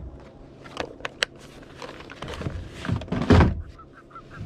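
Kayak paddling: a few hollow knocks of the paddle against the plastic hull, and a louder swish of a paddle stroke through the water about three seconds in.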